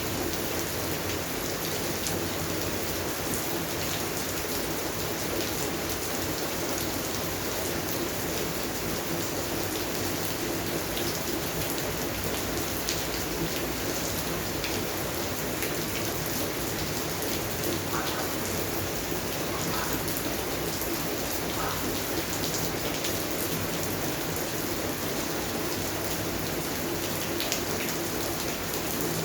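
Steady rain falling on a garden, with individual drops ticking on leaves and surfaces.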